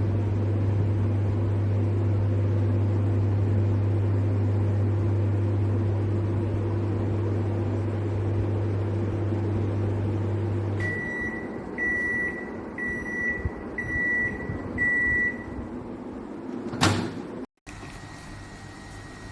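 Sharp 20-litre microwave oven running with a steady low hum, which stops about eleven seconds in. Five short high beeps about a second apart then signal the end of the cooking cycle, followed by a sharp click near the end.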